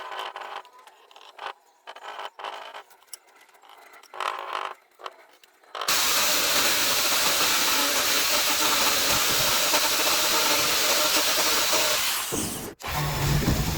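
A few seconds of light scraping and handling of wood, then an electric woodworking power tool starts abruptly about six seconds in and runs with a loud, steady hiss. It cuts out briefly near the end.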